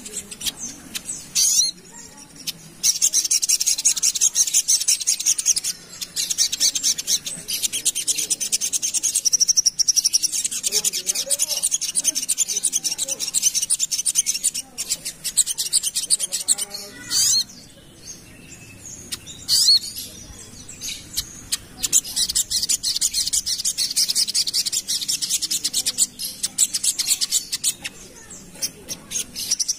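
Little spiderhunter (sogok ontong) singing: long runs of rapid, high-pitched repeated notes, broken by a few short pauses.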